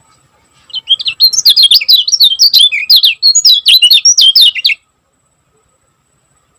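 Kecial kuning singing a fast, tightly packed run of high chirping notes for about four seconds, then stopping abruptly.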